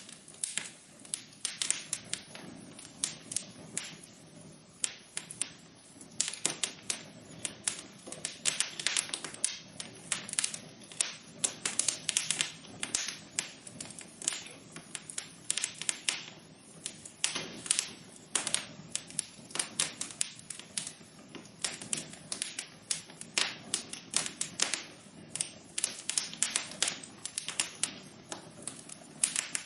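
Wood fire crackling in a fireplace: irregular, dense sharp pops and snaps over a soft steady hiss.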